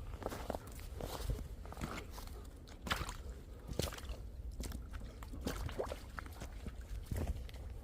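Footsteps in cold, dry snow, irregular steps that squeak and crunch underfoot, the styrofoam-like squeak that snow makes in deep cold.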